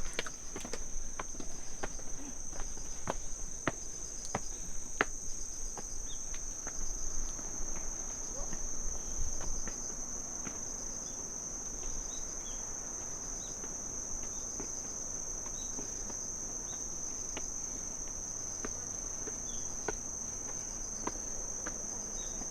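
A steady high-pitched chorus of crickets chirring in autumn. Footsteps click on the path through the first half, then fade out.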